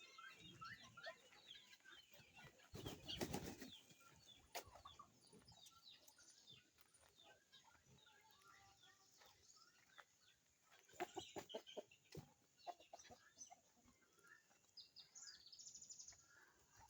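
Faint poultry sounds: birds cheeping, with a short burst of wing flapping about three seconds in and a few sharp clicks around the middle.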